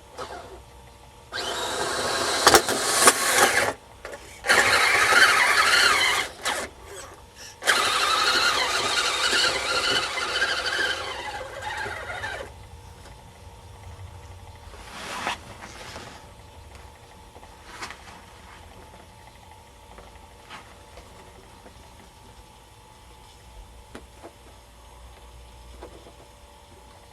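Radio-controlled model Blizzard running in bursts, its drive making a squealing, whining racket. It runs for about three seconds, stops briefly, runs again, pauses near seven seconds, then runs once more before cutting out about twelve seconds in. A few faint knocks follow.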